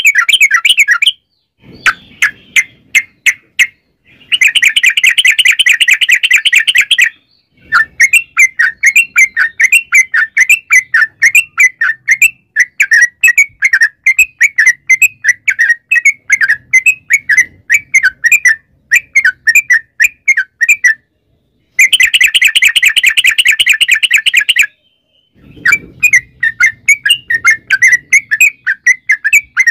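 Yellow-vented bulbul (trucukan) singing loudly in long, rapid, bubbly chattering trills ("ropel panjang"). Dense trill bursts alternate with fast runs of repeated notes, broken by brief pauses.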